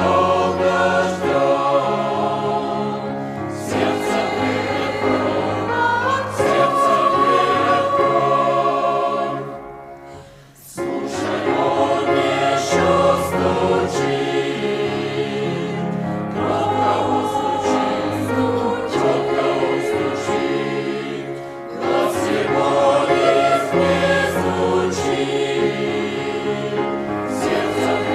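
Church choir singing a hymn, with a brief break between phrases about ten seconds in.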